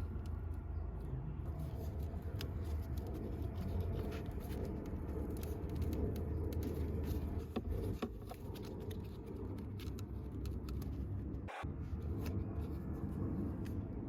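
Light plastic clicks and rustles from handling a car's cabin air filter and its housing, over a steady low rumble. The sound drops out for a moment about eleven and a half seconds in.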